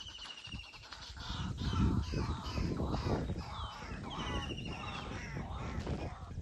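Birds calling and chirping, with a quick trill of high repeated notes at the start and again about four seconds in, over a low rumble.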